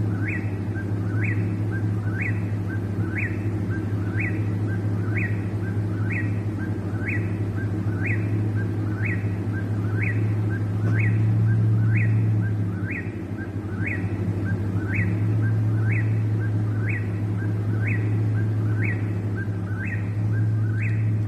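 Eastern whip-poor-will singing its whip-poor-will song over and over, about one call a second, each call ending in a sharp rising note. A steady low hum runs underneath.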